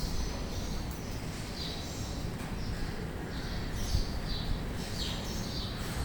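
Birds chirping: short high calls repeating every half second to a second, over a steady low rumble.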